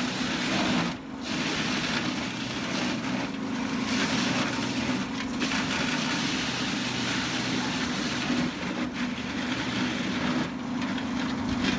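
Heavy-duty industrial wood chipper shredder running under load: a steady low machine hum under a continuous noise of wood cracking and splintering, with a couple of brief lulls.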